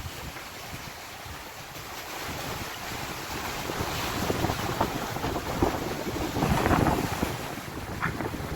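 Wind buffeting the microphone over the rush of sea water against a sailing yacht in heavy swell, swelling louder for a moment about two-thirds of the way through.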